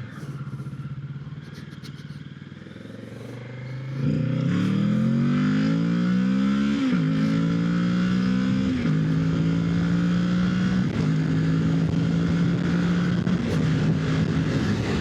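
Kawasaki Ninja 650 parallel-twin engine running quietly, then accelerating hard from about four seconds in: the revs climb and fall back four times as it is shifted up through the gears.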